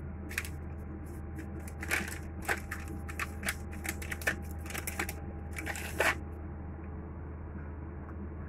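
Irregular crisp crackling and clicking, about a dozen sharp crackles over some five seconds, over a steady low hum.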